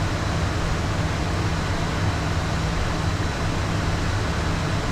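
Steady in-flight cockpit noise of a Beechcraft Premier 1A business jet: an even rush of airflow and engine noise over a low steady drone.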